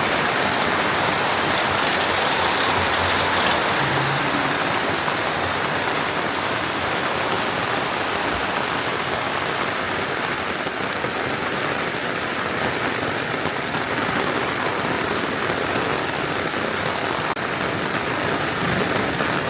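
Heavy rain falling steadily, a constant loud hiss of rain.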